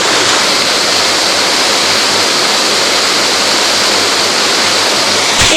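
Mountain stream water rushing, a loud steady rush of noise, with a brief knock near the end.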